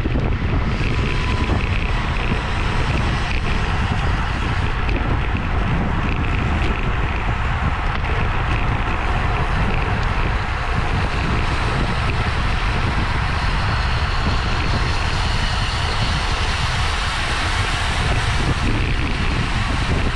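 Wind rushing and buffeting over the microphone of a camera on a bicycle moving at racing speed, a steady, loud, low rumble.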